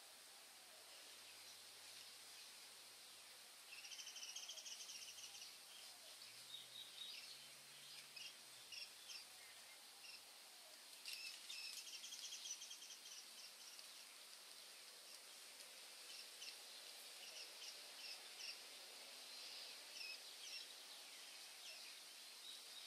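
Songbirds singing: rapid trilled phrases about four seconds in and again about eleven seconds in, with scattered shorter chirps between, over a faint steady hiss.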